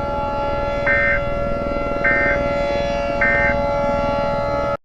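Electronic emergency-alert warning tone: several steady pitches held together, with three short higher beeps about a second apart, then it cuts off abruptly near the end.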